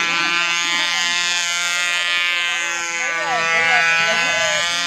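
Small model plane's motor and propeller buzzing steadily, with the pitch wavering up and down as it flies.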